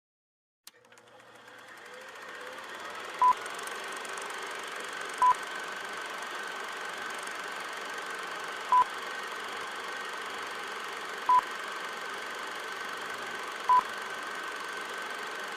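Five short electronic beeps at one pitch, unevenly spaced, over a steady hiss with a faint high hum. The hiss starts with a click just under a second in.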